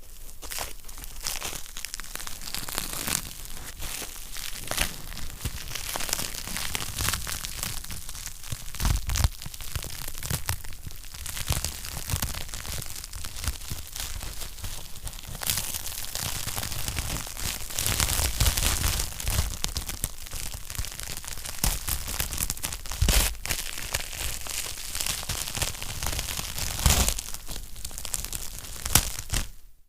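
Wood fire crackling in a fireplace: a dense, irregular run of small snaps and pops over a soft hiss, with a few louder pops scattered through.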